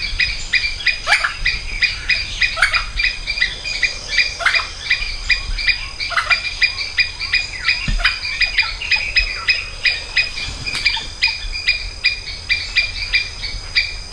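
Rainforest chorus of birds and insects: a steady, fast train of high chirps, several a second, with an occasional separate down-slurred bird call.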